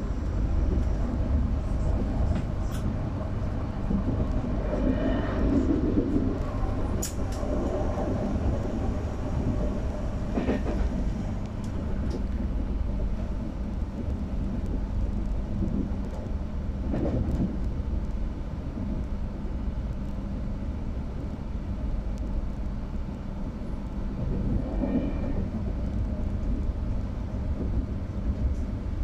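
Interior running noise of a Trenord TAF electric multiple unit at speed: a steady low rumble of wheels on track, heard from inside the passenger car, with a few short knocks scattered through it.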